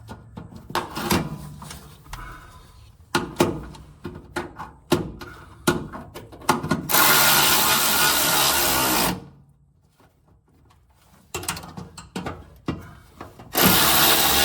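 Power drill-driver running screws in: two steady runs of about two seconds each, one about seven seconds in and one near the end, between clicks and knocks of screws and tools being handled.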